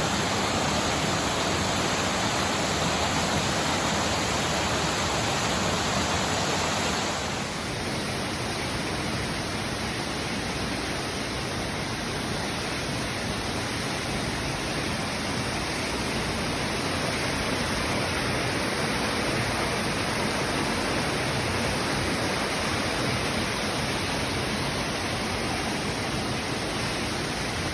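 Waterfall rushing with a steady, dense roar of falling water. About seven seconds in the sound changes abruptly to a slightly quieter, different rush of water, as from another spot at the falls.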